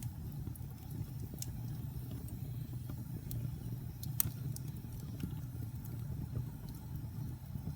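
Logs burning in a fireplace: a steady low rumble of the flames with scattered sharp crackles and pops, the loudest about four seconds in.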